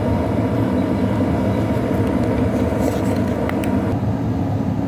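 Steady low mechanical rumble, like a running motor or engine, with a few faint clicks about halfway through.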